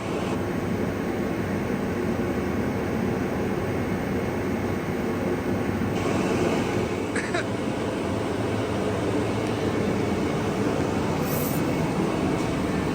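A steady, even rumble of running machinery with a faint hum, unchanging throughout.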